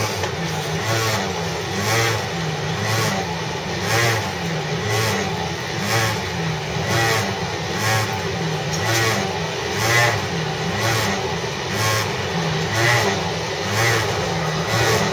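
Odd pulsing engine-like noise from an S-set electric train carriage, heard from inside the carriage: a wavering low drone that surges about once a second, like a motorbike whose engine is stalling.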